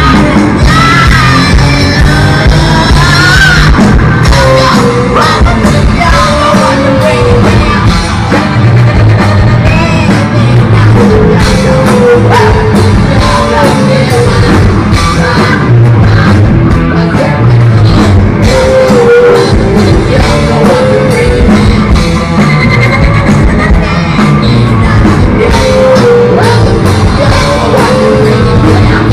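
Live rock band playing, with loud distorted guitars, drums and a singer's shouted vocals.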